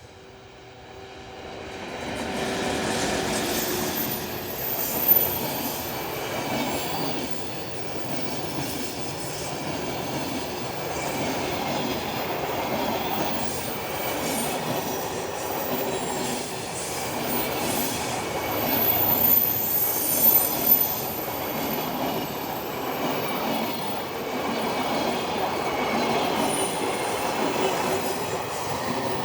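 Freight train passing: it builds up over the first couple of seconds as the train arrives, then the wagons run by in a long steady rumble with wheel clatter over the rail joints. There are sharp knocks about five seconds in and a cluster around twenty seconds in.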